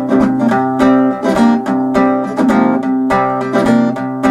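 Acoustic guitar played alone in a driving rockabilly rhythm. Evenly spaced strums ring over a steady bass line.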